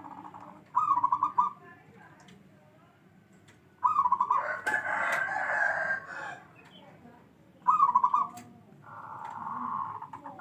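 Zebra dove (perkutut) cooing: three song phrases about three and a half seconds apart, each opening with a quick run of notes and trailing into a longer coo.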